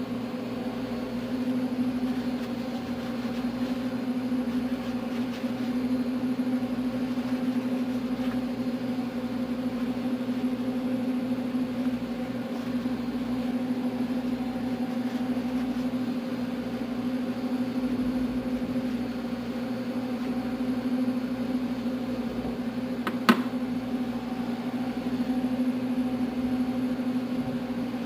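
Steady mechanical hum with an even pitch, and a single sharp click about three quarters of the way through.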